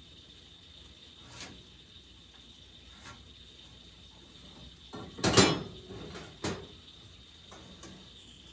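Wooden boards knocking and clattering as they are handled: a few light knocks, then a sharp cluster of knocks about five seconds in and a single knock about a second later. A faint steady high tone runs underneath.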